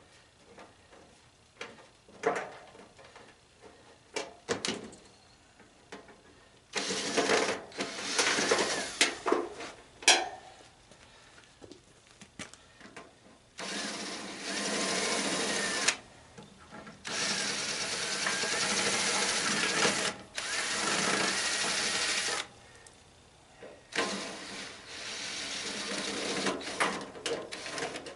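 Power drill running in about five bursts of two to four seconds each, with a whine that holds a steady pitch, preceded by a few light knocks and clicks. The drill is being used to take apart an old tanning bed for scrap.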